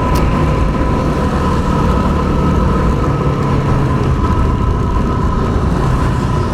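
Yamaha WR250R's single-cylinder engine running steadily at road speed, with a steady high whine and the rush of wind and road noise. There is one sharp click just after the start.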